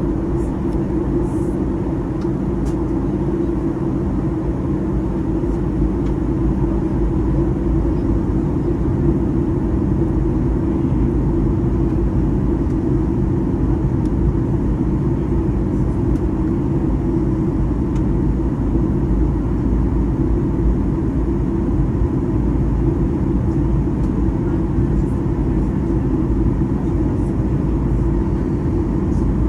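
Steady cabin drone of a Boeing 737-800 in flight: the low, even rumble of its CFM56 jet engines and airflow, with no change in level throughout.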